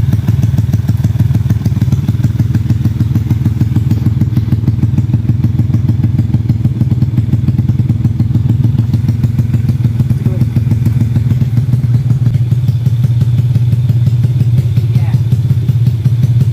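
A 116 cc underbone motorcycle's single-cylinder engine idling steadily with an even, rapid exhaust beat, tuned for the low, smooth 'sleep engine' idle.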